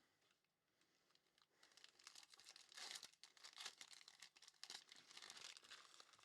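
Faint crinkling and tearing of a trading-card pack wrapper being opened, starting about two seconds in.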